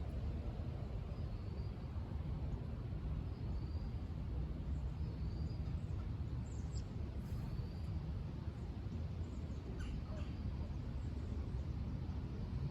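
Outdoor ambience: a steady low rumble, with a small bird giving a faint, short rising chirp every second or two.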